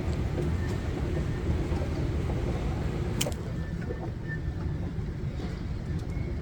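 Steady low rumble of vehicle traffic, with a single sharp click about three seconds in.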